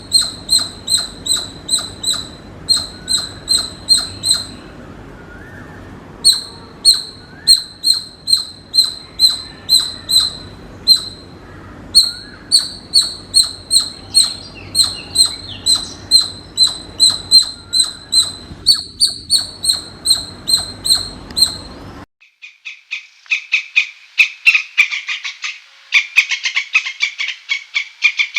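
Squirrel calls: short, sharp, high chirps repeated about three a second in bouts with brief pauses between them. About 22 seconds in, the sound cuts to a faster, lower-pitched rapid chattering.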